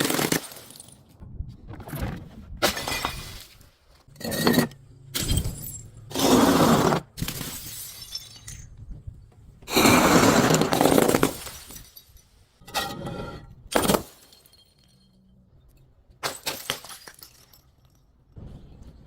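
Glass bottles being crushed and breaking: a string of irregular crunching, shattering bursts, some brief and some drawn out for a second or more.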